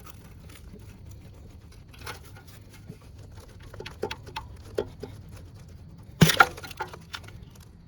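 Scattered small clicks and knocks of a part being worked loose by hand from a car's A/C compressor, with a louder clatter of sharp clicks about six seconds in.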